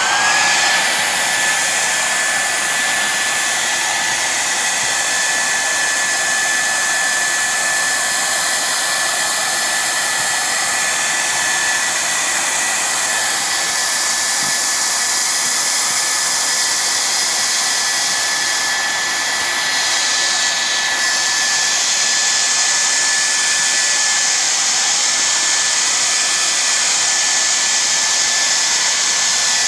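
Hair dryer running steadily, a high motor whine held on one tone over the rush of air, just after it spins up at the start.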